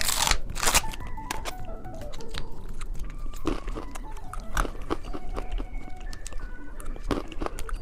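Candy being bitten and chewed: irregular sharp crunches and clicks, over soft background music.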